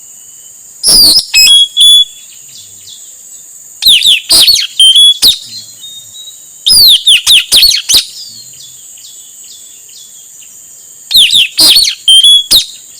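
Male blue-rumped parrot (puling, nuri tanau) calling in four bursts of sharp, high-pitched notes, a few seconds apart. This is the male's call used as a lure for wild birds. A steady insect drone runs underneath.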